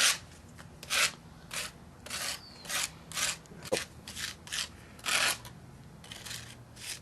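A hand tool scraping and spreading gritty crack-filler paste (sealer mixed with silicates) over asphalt cracks, in repeated short strokes at one or two a second.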